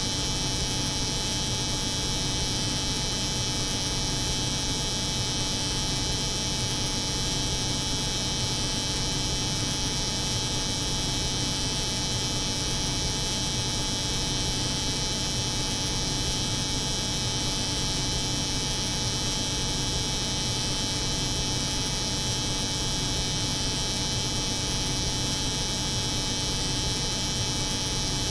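Steady layered drone: an electric hair clipper buzzing over the hum of a cold room, even and unchanging.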